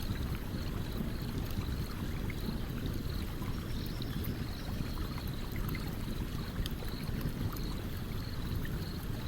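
Stream water running steadily with a low rush, with small scattered crackles and pops from a wood campfire. A faint high chirping repeats throughout.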